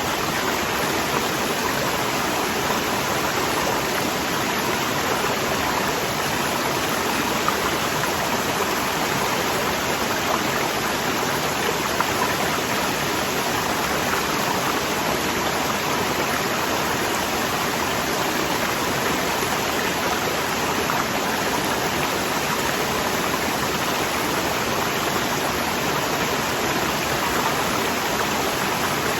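Waterfall: water rushing and splashing in a steady, even roar that does not change.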